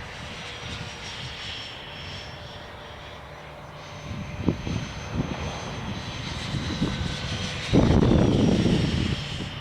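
FreeWing A6 Intruder RC jet's twin electric ducted fans giving a steady high whine as it flies past at about half throttle. About eight seconds in, a loud low rushing noise covers it for a second or so.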